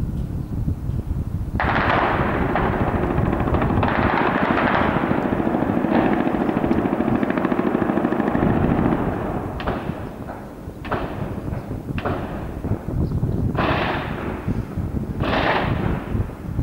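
Automatic gunfire: rapid, continuous fire from about a second and a half in until about nine seconds, then five separate shorter bursts.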